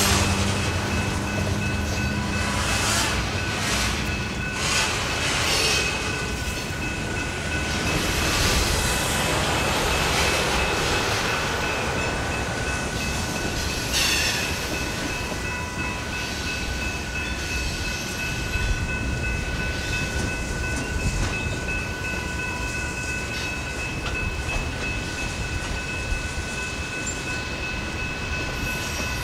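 Freight cars of a mixed freight train, covered hoppers and tank cars, rolling past on steel wheels: a steady rumble and rush of wheels on rail with a few clacks, over a thin, high, steady squeal from the wheels.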